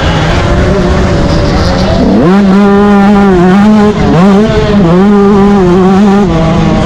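Yamaha YZ125 two-stroke motocross engine at race pace, loud. Its pitch climbs sharply about two seconds in, dips briefly near the middle, then pulls again at high revs.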